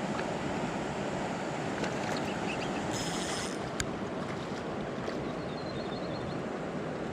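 Steady rushing of water with some wind on the microphone. About three seconds in comes a brief high buzz lasting about half a second, followed by a single click.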